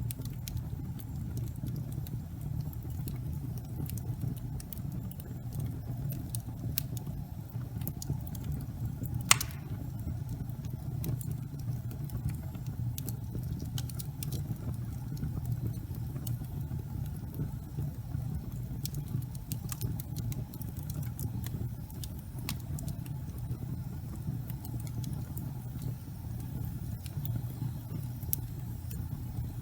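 Fire burning in a fireplace: a steady low rumble of flame with scattered small crackles and pops, and one louder sharp pop about a third of the way through.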